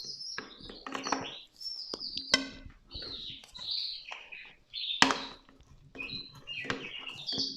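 Small birds chirping repeatedly, mixed with light clinks and knocks of kitchen utensils; one sharp knock about five seconds in is the loudest.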